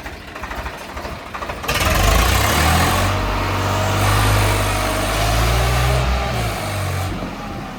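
Swaraj tractor's diesel engine revved hard: from about two seconds in it gets loud, climbs in pitch, holds high, and drops back near the end.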